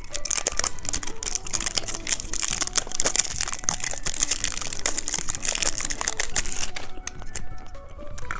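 Plastic candy wrapper crinkling in the hands: dense, rapid crackling that thins out about seven seconds in.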